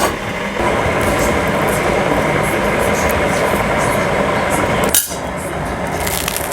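Busy background noise with light clinks of dishes and cutlery scattered through it, broken by an abrupt change about five seconds in.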